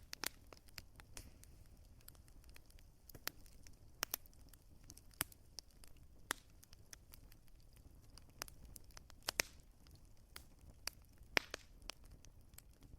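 Wood fire crackling: irregular sharp pops and snaps, a few of them louder, over a soft low rumble of burning.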